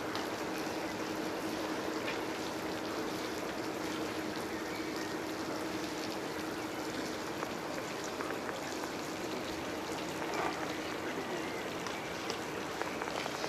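Steady rush of running water, with a faint steady hum underneath that fades near the end.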